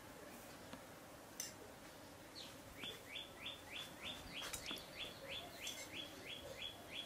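A bird calling: an even series of short, high chirps, about three a second, starting near the middle.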